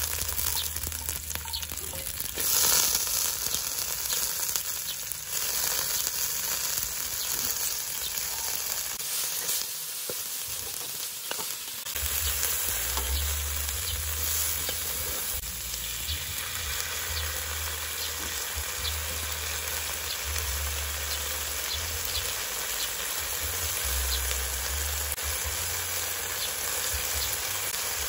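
Water spinach (kangkong) stir-frying in hot oil in a metal wok: a steady sizzle, flaring up about two and a half seconds in, with a spatula stirring and scraping against the pan.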